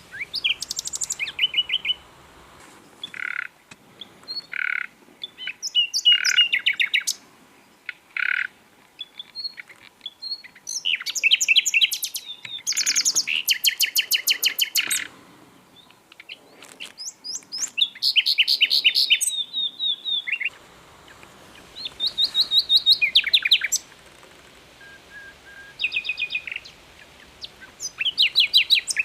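Common nightingale singing in phrases of rapid repeated notes separated by short pauses, with a few single clear whistled notes about three to eight seconds in.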